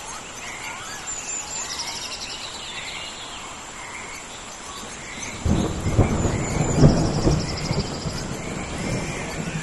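Rainforest rain storm: a steady hiss of rain with birds and insects chirping, and a low rumble of thunder that comes in about halfway through, peaks a second or so later and fades away.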